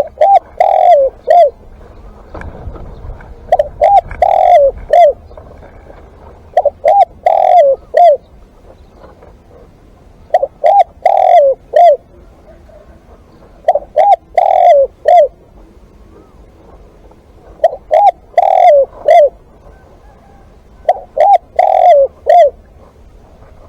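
Spotted dove cooing close up: a phrase of about four coos, one of them longer and falling, repeated seven times at an even pace of roughly one phrase every three and a half seconds.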